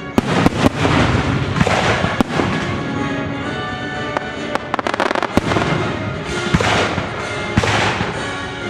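Fireworks display going off in quick succession: sharp bangs, thickest about a second in and again around the middle, mixed with swells of crackling, over orchestral music.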